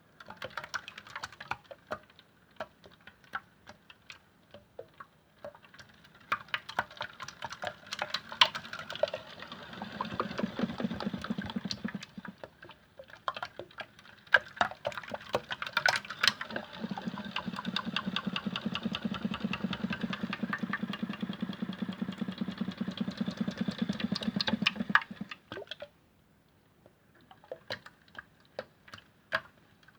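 Small electric motor of a Hotpoint toy washing machine running in two spells, with a steady low hum and fast rattling clicks. The first spell is short and the second lasts about eight seconds. Scattered sharp clicks and taps come before, between and after the spells.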